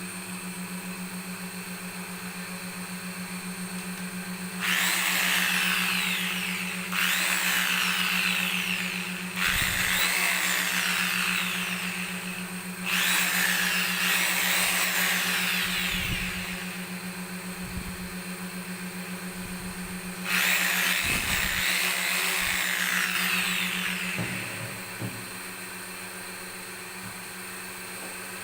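Sewing machine motor running with a steady low hum, broken by five bursts of loud, high-pitched whirring, each lasting two to four seconds.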